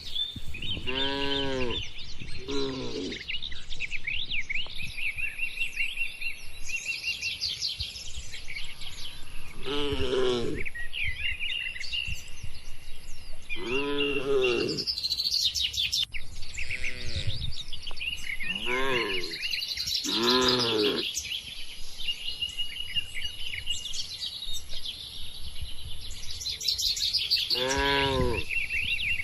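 Cattle mooing: about seven short calls, each rising then falling in pitch, spread through the stretch, over continuous bird chirping and a thin steady high tone.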